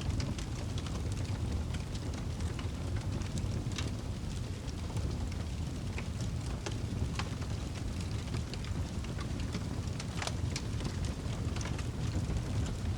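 Wood fire crackling, with sharp pops and snaps at irregular moments over a steady low rumble of the flames.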